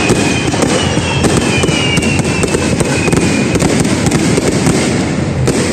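Fireworks display going off: a dense run of sharp crackling reports over a continuous low rumble of bursts, with thin whistling tones sliding slightly down in pitch through the first half.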